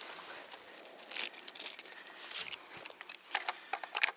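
Soft rustling and crinkling with scattered small clicks, louder briefly about a second in and again near the end.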